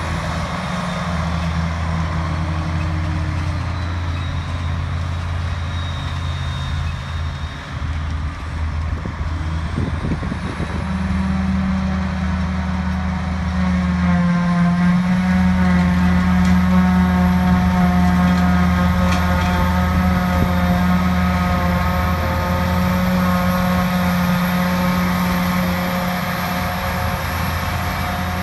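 Large diesel machinery of a grass-silage harvest, forage harvester and tractors, running steadily. It grows louder about halfway through, as a whining machine tone joins the engine drone.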